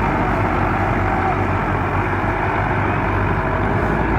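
Tractor's diesel engine running steadily, with a low, even hum.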